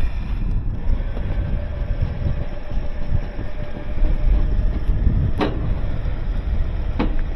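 A vehicle running with a steady low rumble and a faint steady hum, with two sharp knocks, one a little past halfway and one near the end.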